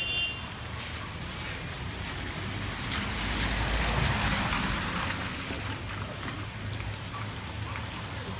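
Heavy rain pouring down in a steady hiss, which swells louder with a low rumble about three seconds in and then eases back.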